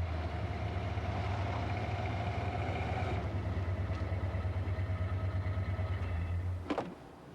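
A car engine idling steadily; it starts suddenly and cuts off abruptly near the end.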